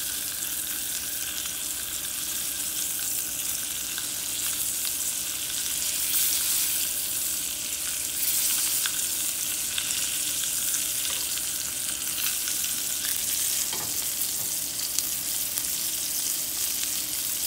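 Ahi tuna steaks sizzling in butter in a cast-iron skillet: a steady frying hiss, with a few faint taps from the metal tongs as the steaks are turned to sear their sides.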